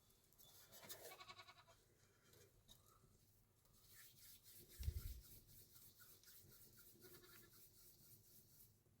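Faint bleating of a farm animal, one call about a second in and another around seven seconds, with a brief low thump around five seconds.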